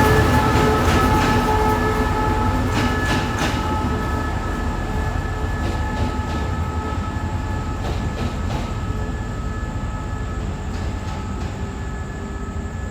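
Diesel train rolling through and moving away, its low rumble and steady whining tones fading steadily, with a few clicks of wheels over rail joints about three seconds in.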